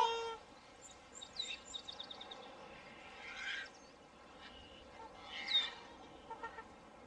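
A swan's nasal honking call ending just at the start, then outdoor bird calls: quick high chirps of small birds and two louder rough calls about three and a half and five and a half seconds in.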